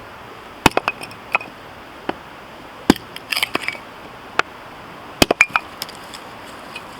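Husqvarna hatchet chopping and splitting firewood: a series of sharp woody knocks and cracks, the hardest about a second in, about three seconds in and just past five seconds, with quicker smaller knocks and clatters between.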